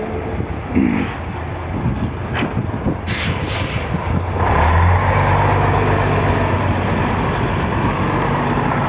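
Scania truck's diesel engine running, with a short hiss of air about three seconds in; from about four and a half seconds the engine runs louder and harder under load as the truck manoeuvres.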